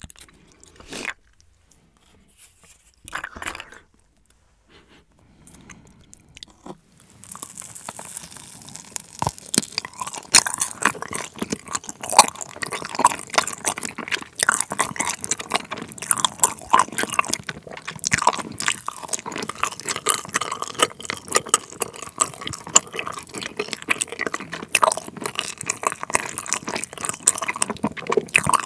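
A few scattered soft clicks of a gummy candy being handled, then from about seven seconds in, close-miked wet, sticky chewing of a Trolli Planet Gummi: a chewy gummy shell with a sour liquid jam filling, squelching and clicking between the teeth.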